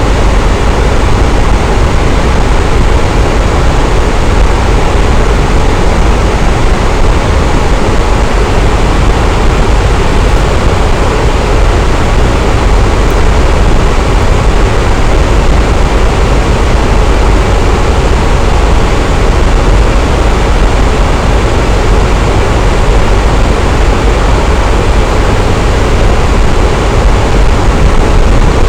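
Electric fan running steadily: a constant, loud whooshing rush of moving air with a deep low rumble underneath, unchanging throughout.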